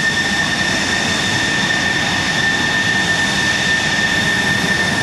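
Military jet aircraft engine running steadily: an even rush of noise with a constant high whine.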